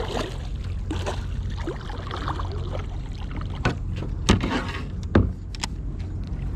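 Small sounds of a kayak on the water: a few sharp knocks against the hull and gear, the loudest about four seconds in, with water trickling, over a steady low rumble.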